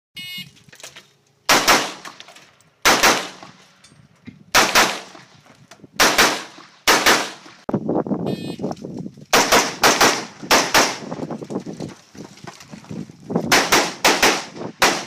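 AR-15 carbine firing drills: about twenty loud, sharp rifle shots, mostly fired in quick pairs and short strings of two to four, with a pause of a few seconds between strings and a ringing tail after each shot.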